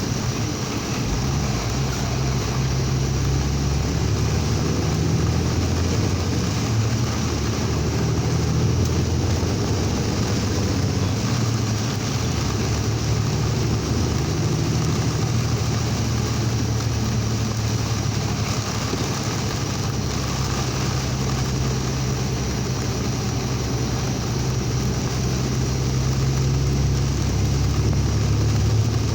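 Steady engine drone and road and rain noise inside a vehicle's cab while driving through a heavy rainstorm.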